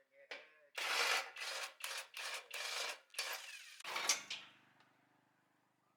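A run of rhythmic rubbing strokes, about two a second, of the kind a brush, file or scraper makes on a workpiece. About four seconds in they give way to a low hum that fades out.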